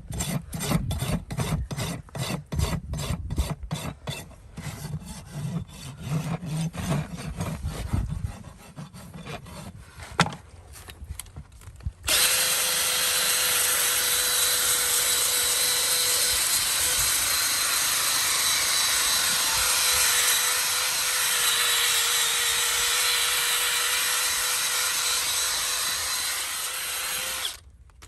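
A farrier's rasp filing a horse's hoof in quick, rhythmic strokes, about two or three a second. About twelve seconds in, a power tool starts and runs steadily with a constant hum until it cuts off near the end.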